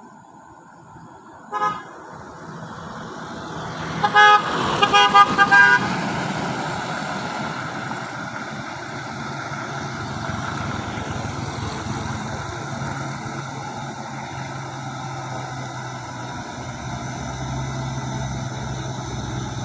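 A vehicle horn gives one short toot, then a quick run of several honks a couple of seconds later. Underneath, a Mitsubishi Fuso truck's engine runs steadily under load as it crawls up a steep climb, getting louder.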